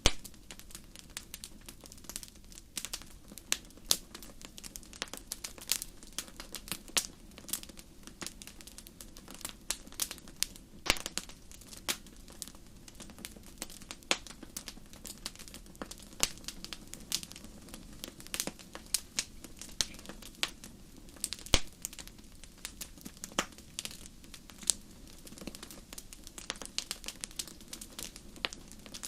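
Wood fire burning in a fireplace: irregular crackles and sharp pops from the burning logs over a steady low hiss and rumble of the flames.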